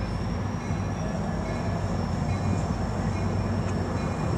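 Steady low rumble of an approaching train, still some distance off, with a faint thin high tone held over it.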